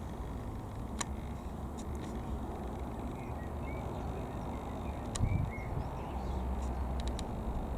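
Outdoor background: a steady low rumble, with a few faint short bird chirps in the middle and occasional sharp clicks.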